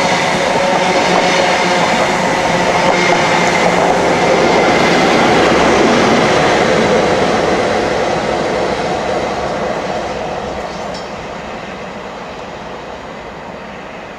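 High Speed Train (InterCity 125) passing at speed: diesel power-car engine note and wheel-and-rail noise, loudest about six seconds in, then fading steadily as the train draws away.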